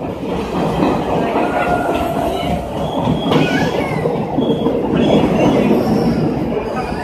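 Passenger train running through a rail tunnel, heard from inside the carriage: a loud, continuous rumble and rattle of wheels on rail, with thin high squealing tones from the wheels now and then.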